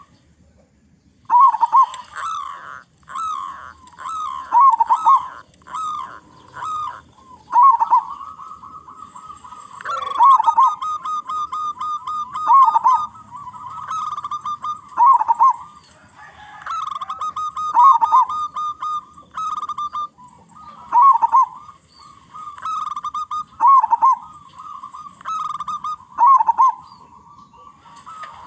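Zebra doves (perkutut) cooing: a run of repeated rolling, trilled coo phrases that follow each other with hardly a pause, some drawn out into longer trills.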